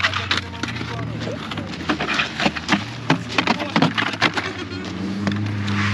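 Car engine running steadily, under a quick, irregular run of sharp knocks and clatter for the first four seconds or so; near the end the engine note rises as it picks up revs.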